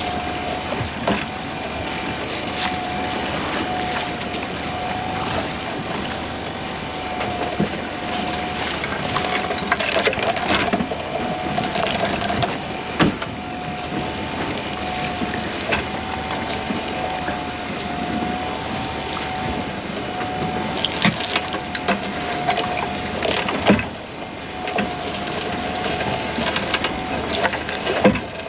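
Small fishing boat's machinery running with a steady, slightly wavering whine, while irregular knocks and clatter of gear sound on board.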